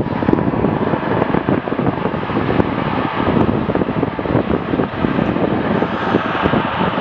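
Cessna 560XL Citation XLS business jet's twin turbofan engines, a steady jet noise during its arrival, with wind buffeting the microphone.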